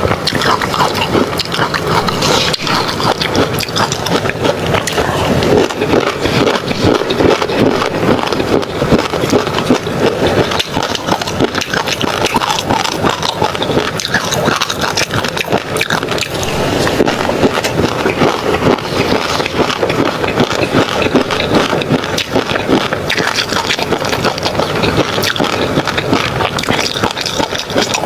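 Close-miked eating sounds as tobiko (flying fish roe) is chewed: a dense, continuous run of wet crackles and small pops from the mouth.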